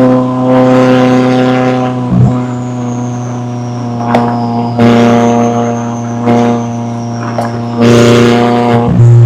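McLaren 570S twin-turbo V8 running under way at a nearly steady engine pitch, louder at the start and again near the end. Several short cracks or breaks in the note come along the way, with a faint high whine over it.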